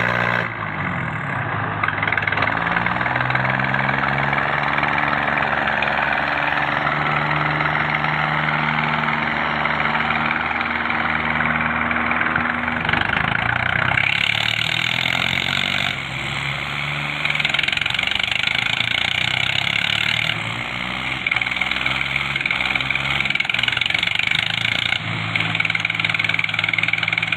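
Diesel tractor engines running and revving, their pitch rising and falling, with sudden changes of sound several times as one clip cuts to the next.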